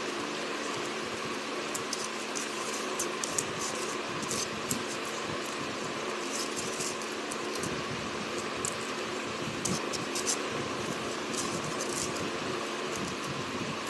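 Steady hum of a room fan, with scattered small clicks and smacks from people eating biryani.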